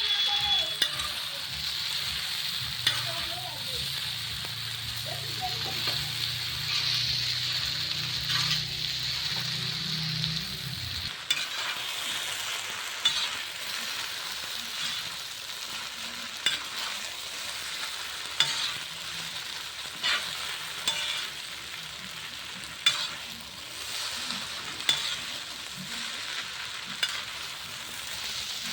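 Boiled chow mein noodles sizzling in hot oil as they are stir-fried with sauce in a pan, with a steady hiss and a spatula knocking against the pan every second or two.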